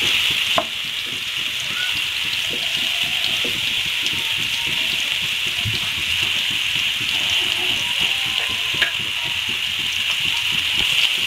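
Whole marinated prawns sizzling steadily in hot oil in a frying pan, with fine crackling throughout. A spatula taps against the pan a couple of times, once just after the start and once later on.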